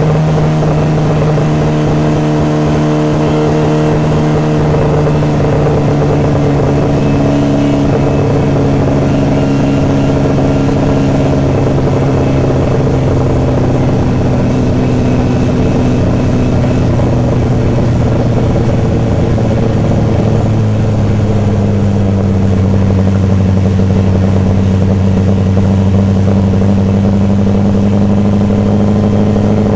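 MGA Twin Cam's twin-overhead-cam four-cylinder engine running steadily, heard from the open cockpit. Its pitch eases down slowly over about twenty seconds, then holds and rises slightly near the end.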